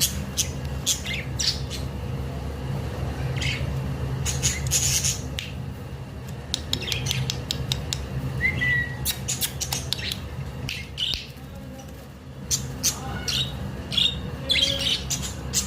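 Budgerigar giving repeated short, harsh squawks and chirps in quick clusters, with one brief whistled note about halfway through, over a steady low hum.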